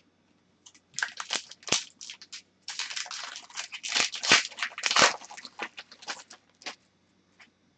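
Hockey trading cards and their packaging handled at close range: a run of irregular rustles, slides and light clicks, busiest in the middle few seconds.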